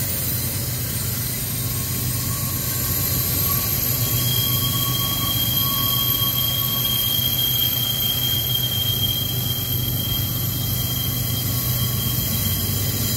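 Double-stack freight train rolling uphill through a 180-degree curve, its wheels squealing against the rail in a steady high tone that sets in about four seconds in, over a steady low rumble.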